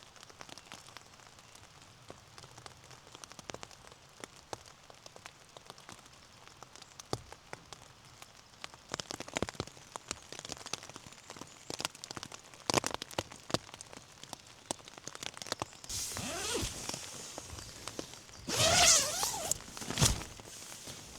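Raindrops falling in scattered, irregular taps. Louder rustling starts about three-quarters of the way in and peaks in a burst shortly before the end.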